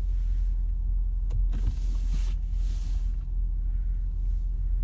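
Car cabin with a steady low rumble from the running car and the windshield wipers swishing across the glass twice.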